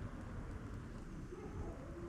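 A dove cooing faintly in the background over a steady low rumble.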